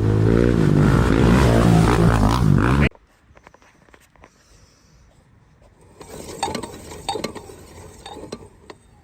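An off-road racing engine revving, its pitch rising and falling, cut off suddenly about three seconds in. After a quiet stretch, light metallic clicks and clinks begin about six seconds in.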